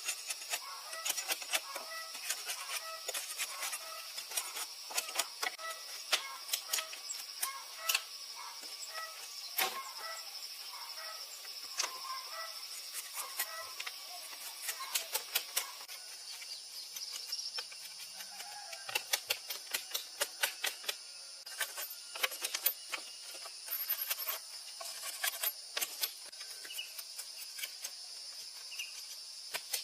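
Many quick sharp clicks and taps, coming in dense runs in the second half, over a steady high-pitched drone, with short repeated chirps in the first half.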